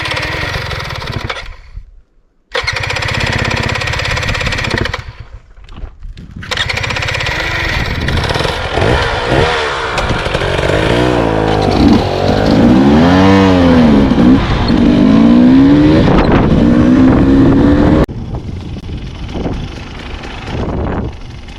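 Dirt bike engine running under way, its revs rising and falling as it accelerates and backs off. The sound breaks off abruptly twice in the first few seconds and drops sharply to a quieter level near the end.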